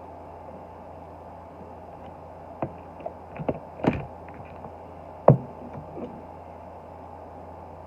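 A handful of sharp plastic clicks and knocks, the loudest about five seconds in, from diecast toy cars in plastic display cases being handled and set down. A steady low hum runs underneath.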